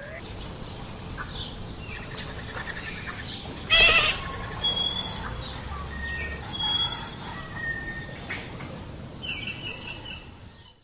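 Songbirds calling in trees: short, clear whistled notes and chirps, with one loud, short, rasping call about four seconds in.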